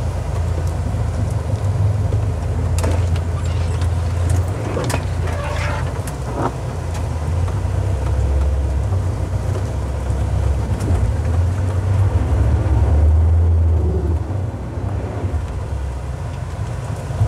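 Mahindra Thar's diesel engine pulling hard in two-wheel drive as the 4x4 climbs a rough slope, its low drone rising and easing. A few sharp knocks come in the first half.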